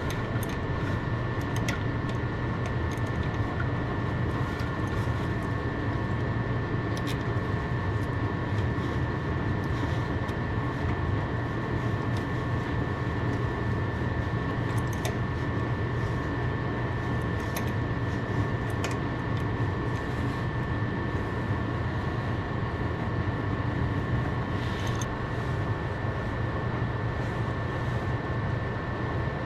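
A steady mechanical hum with a faint high steady whine, broken by a few light clicks.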